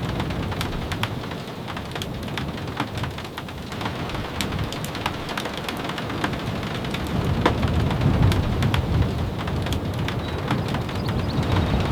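Steady rain with scattered sharp ticks, and a low rumble that swells about seven seconds in.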